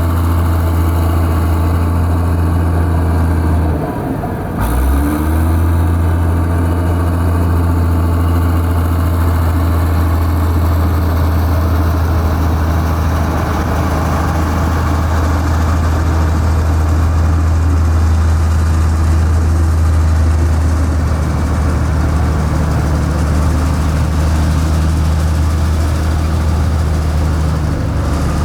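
Heavy diesel engine of construction equipment running steadily with a deep hum, with a brief drop and a short rise in pitch about four seconds in.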